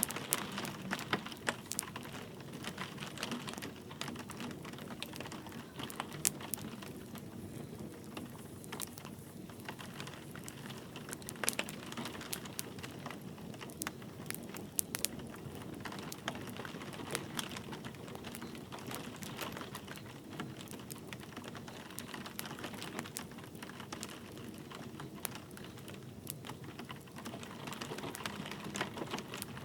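Wood fire crackling in a fireplace, with irregular sharp pops and clicks over steady light rain.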